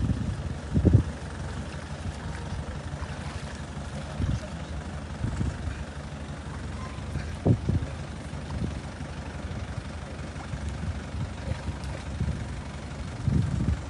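Tractor engine running low and steady, with a few brief low thumps.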